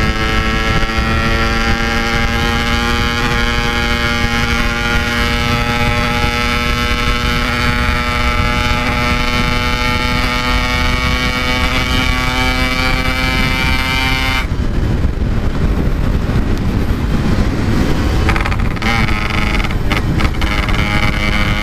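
Yamaha RX-King's two-stroke single-cylinder engine running at a steady note while riding, with heavy wind noise. About two-thirds of the way through, the engine note drops out abruptly, leaving mostly wind and road noise. It returns faintly near the end.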